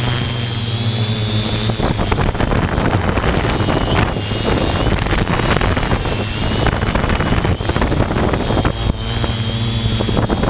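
Multirotor drone's motors and propellers whining, the high pitch wavering a little as they work against the wind. From about two seconds in, heavy, gusty wind buffeting on the microphone sits over it.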